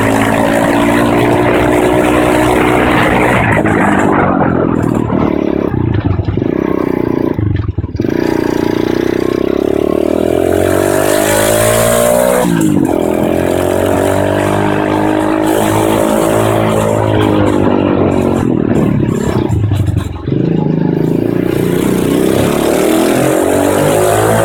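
Pit bike engine revving up and down as it is ridden, its pitch rising and falling again and again, with short drops in sound about 8, 12 and 20 seconds in. Heard from a helmet-mounted camera.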